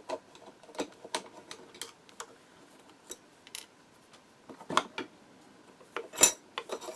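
Light metal clicks and clinks of a screwdriver and a steel needle plate being handled as the plate is unscrewed and lifted off a Podolsk sewing machine. The clicks come irregularly, with a small cluster about five seconds in and the loudest clink a little after six seconds.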